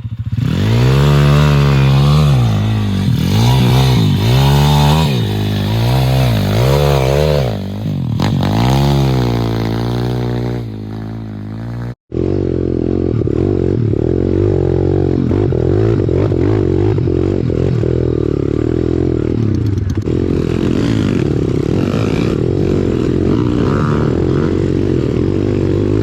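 Small single-cylinder four-stroke pit bike engines being ridden, revs rising and falling over and over with gear changes for about twelve seconds. After a sudden cut, a steadier, held engine note.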